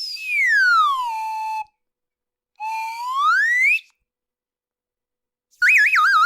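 Slide whistle comedy sound effects: one long whistle sliding down in pitch and then holding, then a second whistle sliding up. Near the end a warbling whistle starts, its pitch wobbling quickly up and down.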